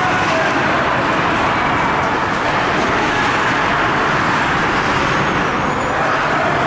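Steady, loud rushing din of a hockey arena, with no distinct events standing out.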